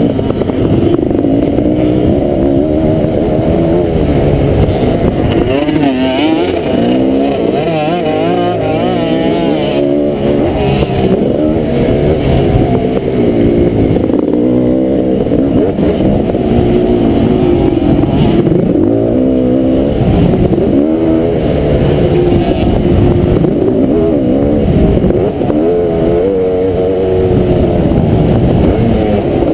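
Kawasaki KX500's two-stroke single-cylinder engine racing on a motocross track, its pitch rising and falling again and again as the throttle is worked through the corners and jumps.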